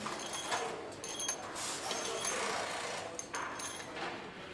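Engine assembly-line clatter: irregular metal clicks and clinks of parts and hand tools, with a longer hiss of noise about two seconds in.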